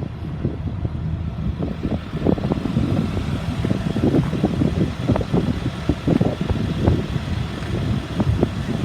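A school bus engine idling steadily, with a run of irregular thumps and knocks over it.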